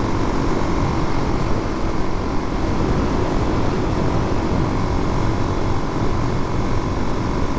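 Suzuki DR-Z400's single-cylinder four-stroke engine running at a steady cruise, its even note held without revving up or down under a dense rush of riding noise.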